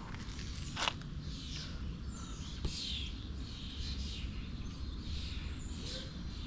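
Birds chirping repeatedly in short, sweeping calls over a low steady background hum, with a sharp click a little under a second in and a fainter one a couple of seconds later.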